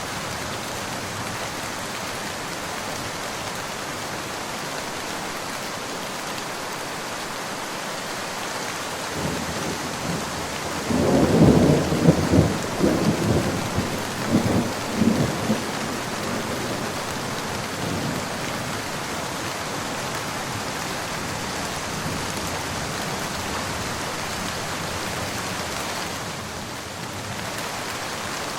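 Steady rain with a thunderclap about a third of the way in. The thunder rolls on in several loud surges for about five seconds, then dies away under the rain.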